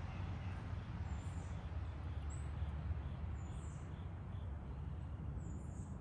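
A few faint, short, high chirps from small birds over a steady low rumble.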